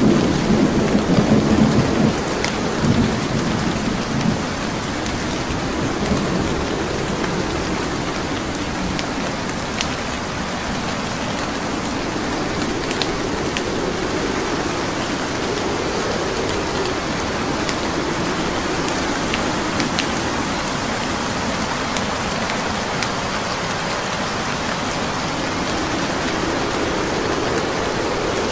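Steady heavy rain, with a low rumble in the first few seconds, and sparse sharp crackles and pops from burning wood logs in a fireplace.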